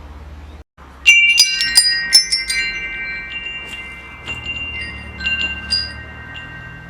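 Metal wind chimes ringing: a flurry of strikes about a second in, the tubes sustaining long, clear overlapping tones, then a few lighter strikes later on.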